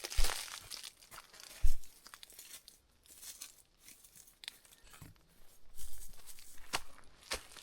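Footsteps crunching and rustling over dry, rocky ground and brush, with a few sharp knocks, the loudest about 1.7 s in.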